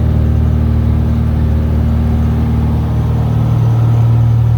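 Cessna 172's piston engine and propeller in flight, a loud steady drone that holds the same pitch throughout.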